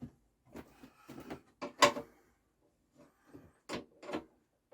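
Hand tools being handled: a scattered series of short clicks and clacks, the loudest a sharp clack a little under two seconds in.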